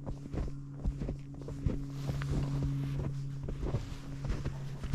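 Wind buffeting the microphone over a steady low hum, with scattered soft thumps.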